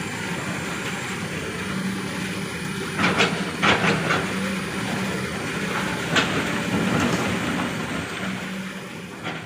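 Dump truck engine running while the truck moves over a slippery, muddy road, with a few sharp knocks and clunks about three seconds in and again around six seconds.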